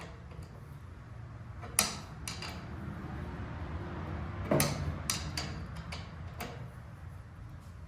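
Wrench and metal parts clicking and clinking as a fuel line fitting on a diesel tractor's filter housing is worked loose: about half a dozen sharp, irregular metal clicks.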